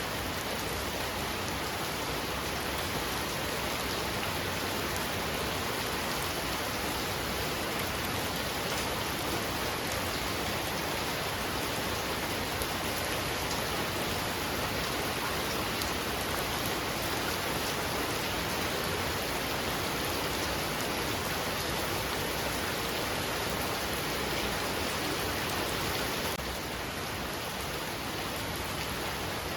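Heavy rain falling in a steady downpour, a dense even hiss of drops, becoming slightly quieter near the end.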